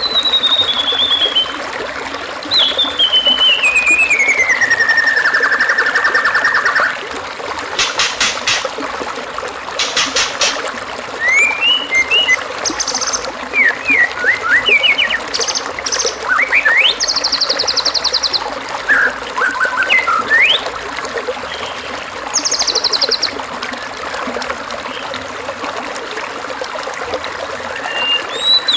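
Recorded birdsong master track for training white-rumped shamas: a varied run of whistles, a long falling trill, rapid rattles, short rising chirps and high buzzy trills, over a steady trickle of running water. The singing stops for the last few seconds, leaving only the water.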